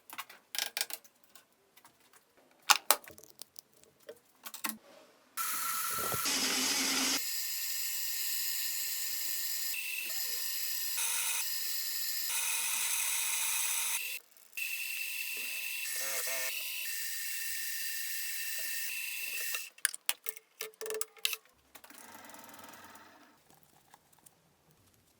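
Workshop clicks and knocks, then a power tool running with a steady high-pitched whir for about eight seconds, stopping briefly, and running again for about five seconds; more clicks follow, and a fainter run near the end.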